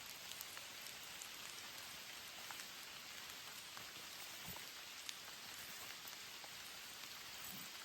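Steady rain falling, an even hiss with scattered sharp drop ticks, and a brief low thump about halfway through.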